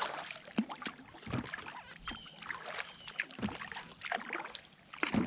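Kayak paddling: the blades of a double-bladed paddle dip and splash in the water, with drips and small irregular knocks.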